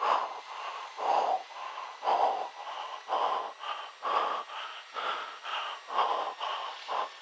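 A person breathing hard and fast close to the microphone, in and out about once a second.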